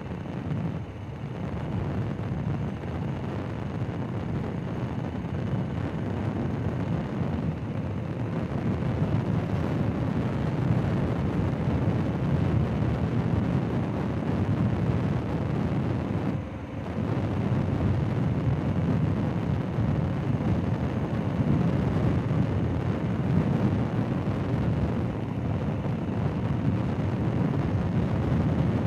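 Motorcycle riding along a dirt road: a steady engine and road rumble with wind rushing over the microphone, briefly dropping a little past halfway.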